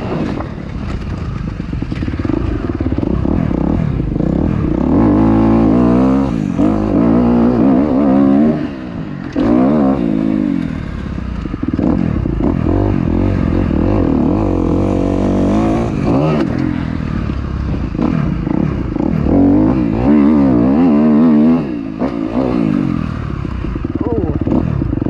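Dirt bike engine under riding, revving up and dropping back again and again as the throttle opens and closes, with short dips in level about 8, 16 and 21 seconds in.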